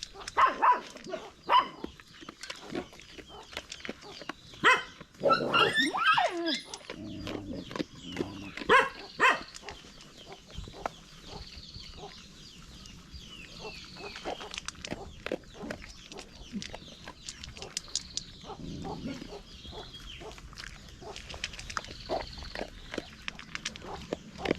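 A dog whining and yelping in short cries during the first ten seconds, with a longer sliding whine about five to six seconds in, followed by quieter scattered clicks.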